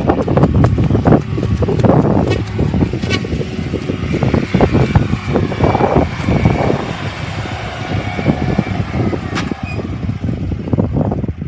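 A heavy vehicle running loudly, with irregular knocks and rattles throughout.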